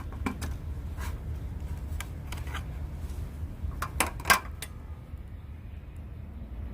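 Light clinks and knocks of cookware and utensils being handled, a scattering of sharp clicks with the two loudest just after four seconds in, over a steady low rumble.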